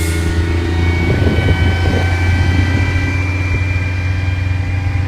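Crane engine running steadily at a constant speed, a low drone with a faint high whine above it. A brief rustle about a second in.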